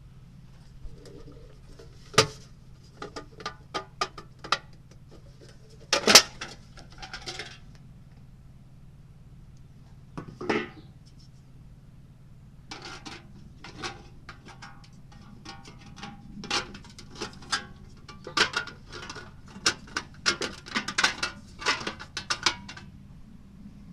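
Irregular light metal clinks and knocks, like a thin metal tin and small parts being handled, sparse at first and coming thicker in the second half, over a steady low hum.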